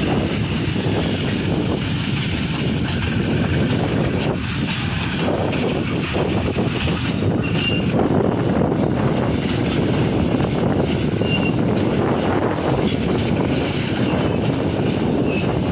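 Loaded ore freight train rolling past, a steady rumble of wheels on rail, with a few brief high wheel squeals.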